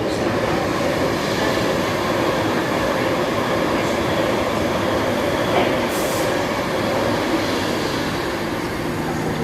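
A train running through the station: a steady, loud noise of wheels on rail and traction equipment, with a hum holding a few steady pitches.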